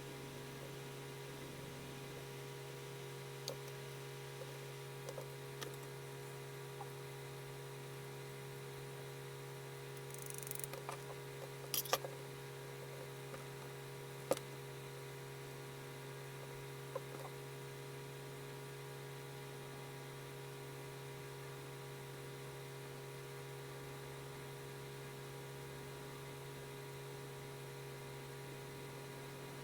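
Steady electrical mains hum, with a scattering of light ticks and taps and a brief scratchy hiss about ten seconds in, like a pencil stroke on paper; the sharpest taps come about twelve and fourteen seconds in.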